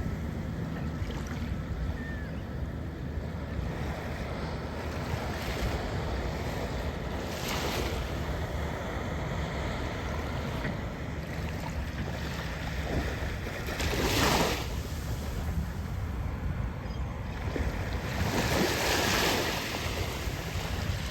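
Small surf washing up on a beach, with wind buffeting the microphone as a steady low rumble. Waves break and wash in three times, about a third of the way in, around two-thirds of the way in (the loudest), and near the end.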